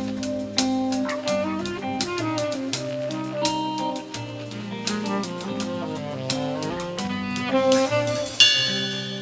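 Instrumental music from a live band playing the outro of a ballad: melodic notes over drums. About eight seconds in comes a final accented chord that rings out and fades.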